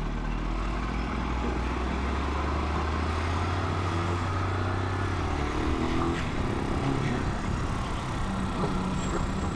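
Italika 250 motorcycle engine running under a steady haze of wind and road noise. A steady low engine note holds for about the first five seconds and then drops away.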